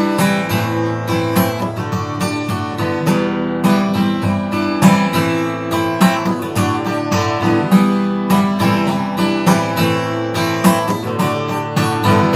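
Acoustic guitar strummed in a steady rhythm, playing an instrumental passage of a song with no singing.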